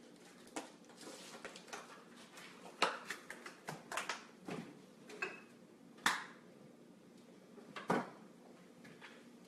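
Quiet kitchen handling: fresh dill rustling as it is pulled apart and set down, with a few light knocks and clicks of utensils or dishes on the counter, the sharpest about three, four, six and eight seconds in.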